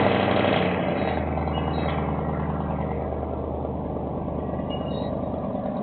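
A car engine running loud and steady, with a low, even note that starts abruptly and then eases down slowly.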